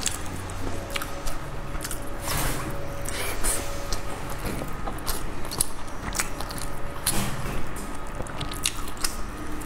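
Close-up eating sounds: wet chewing and mouth clicks as sticky rice is eaten, with short clicks scattered throughout.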